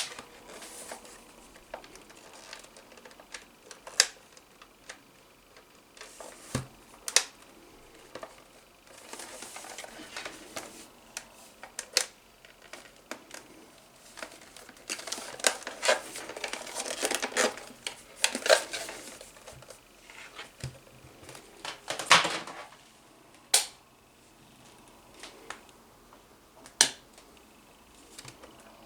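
Irregular sharp clicks and knocks, with stretches of rustling between them, as small hard objects are handled.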